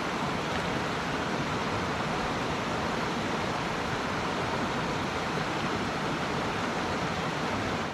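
Mountain stream water rushing, a steady, even sound.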